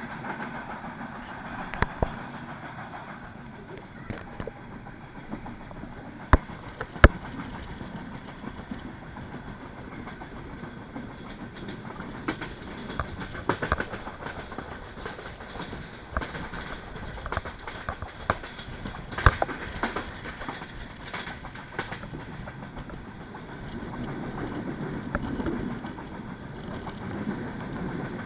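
Passenger train running along the track, heard from inside a carriage: a steady rumble of wheels on rails with scattered sharp clacks and knocks, the loudest a pair a few seconds in and another about two-thirds of the way through.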